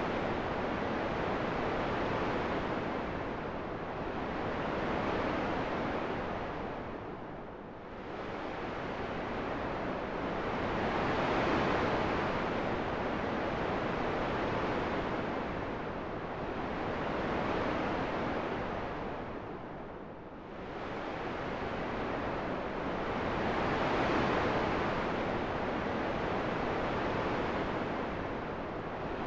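Continuous wind noise, a steady rushing that swells and ebbs about every six seconds, dropping lower twice.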